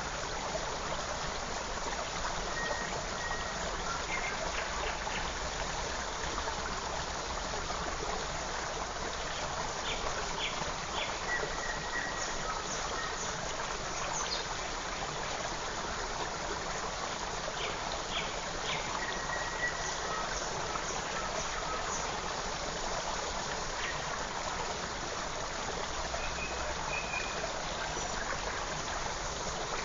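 Forest stream running steadily, with small birds giving short chirps and calls every few seconds over the water.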